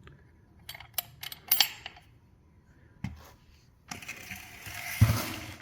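Metal clinks and rattles from handling a small motorcycle lift jack and its locking pin: a quick cluster of clicks, a single knock, then a scraping sound ending in a thump.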